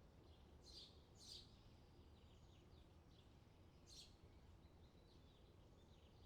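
Faint songbird chirps: a few short, sharp calls, two close together about a second in and another about four seconds in, with softer chirps between, over a faint steady low rumble.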